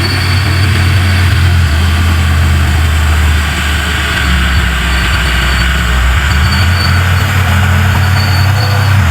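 Heavy diesel engine of a large earthmoving machine running steadily with a low, even drone.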